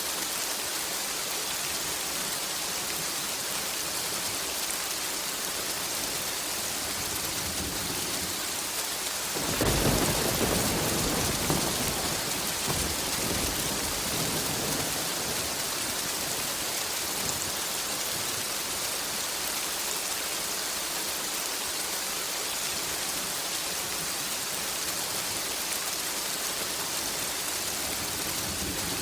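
Steady rain hissing, with a roll of thunder about ten seconds in that rumbles low and fades away over several seconds.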